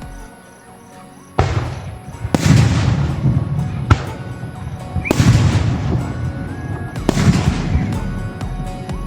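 Fireworks display: about five bangs a second or two apart, each trailing off in a long crackle, over background music.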